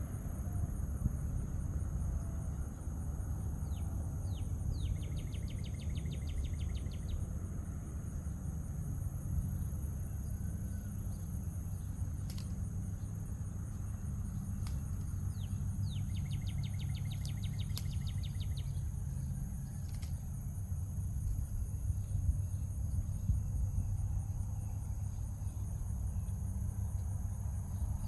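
A songbird sings the same short song twice, a few separate notes followed by a fast trill, over a steady low outdoor rumble and a thin high insect-like hum.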